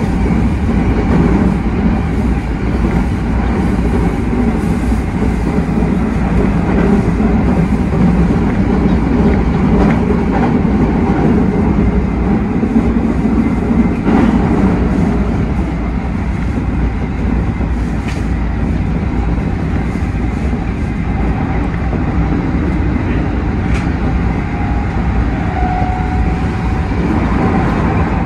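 Keikyu 1000 series electric train running at speed, heard from the driver's cab: a steady rumble of wheels on rail with a few light clicks from the track. Near the end a faint steady tone comes in over the running noise.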